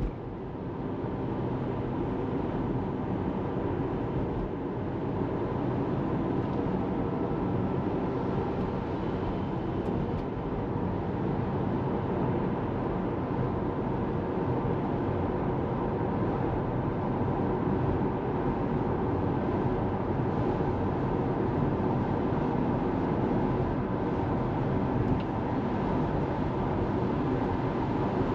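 Steady road and tyre noise from a Tesla Model 3 driving, heard from inside the cabin, with no engine sound from the electric car.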